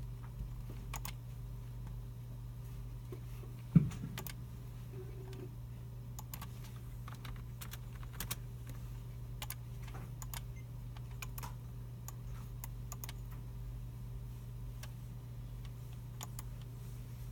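Scattered computer keyboard keystrokes and mouse clicks from several users in a computer room, over a steady low hum. One louder knock comes about four seconds in.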